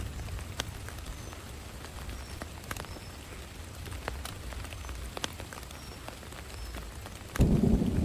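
Steady rain falling, with scattered individual drops ticking sharply. Near the end a sudden, much louder low thumping and rustling begins.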